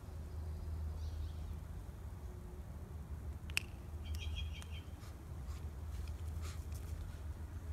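A bird chirping a few short high notes about halfway through, just after a single sharp click, over a steady low rumble.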